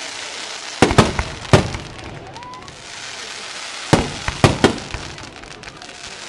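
Fireworks display: aerial shells bursting in sharp bangs, about three close together a second in and three more around four seconds in, with a steady hiss between them.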